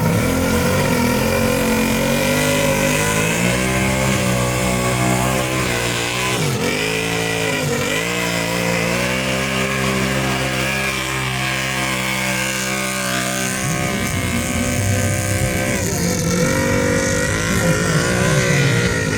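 Stock UTV engine revving hard, its pitch dropping sharply and climbing back a few times as the throttle is worked.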